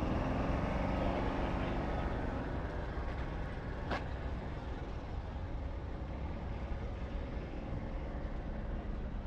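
Heavy truck's diesel engine running, louder over the first few seconds and then fading under a steady low rumble, with one sharp click about four seconds in.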